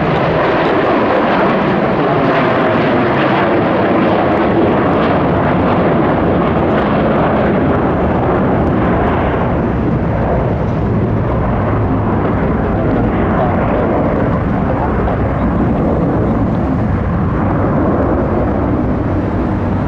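Jet airliner's rear-mounted turbofan engines at takeoff power during departure, a loud steady roar whose higher hiss fades away after about halfway as the aircraft climbs out. The aircraft is the MD-81 and its engines are Pratt & Whitney JT8D low-bypass turbofans.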